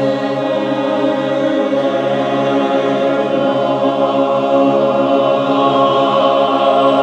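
Barbershop-style chorus singing a long sustained chord in four-part harmony, swelling slightly louder toward the end.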